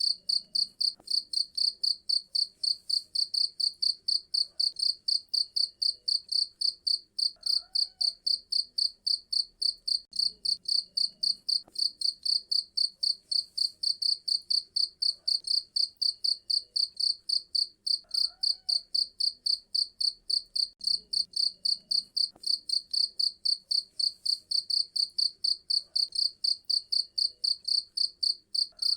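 Cricket chirping steadily in rapid, evenly spaced high-pitched pulses, with faint lower calls and clicks in the background.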